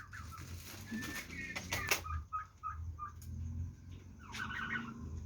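Bronze and Narragansett turkeys calling: a run of short high yelps spaced a few tenths of a second apart, with a rapid warbling burst near the end. A few loud rustles come about a second and a half in, over a low steady hum.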